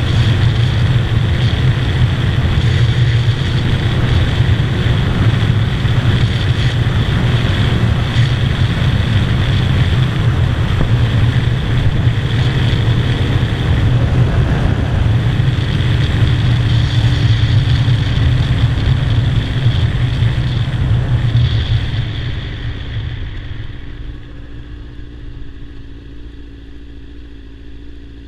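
Kawasaki ZZR600 inline-four motorcycle engine running steadily at highway speed. Over the last several seconds it falls away, growing much quieter as the bike slows down.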